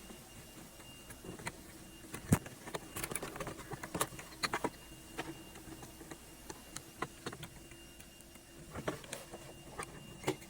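Scattered light clicks and taps of small parts and hand tools being handled during a repair, with one sharper knock a little over two seconds in, over a faint steady hum.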